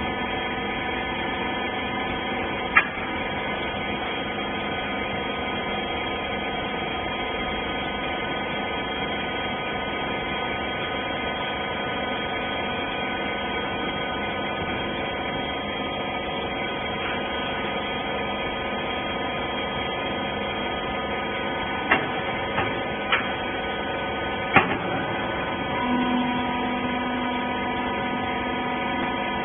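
Hydraulic baling press running with a steady hum from its pump and motor. A few sharp knocks sound, one about three seconds in and a cluster a little over two-thirds of the way through, and a higher, steadier tone joins near the end.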